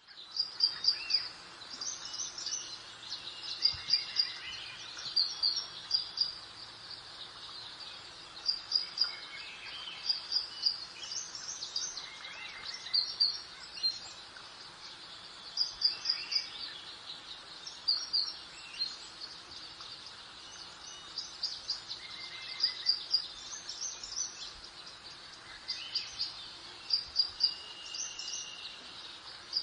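Birdsong: a bird repeating quick groups of two to four high chirps every second or two, with softer calls from other birds over a faint steady hiss of breeze.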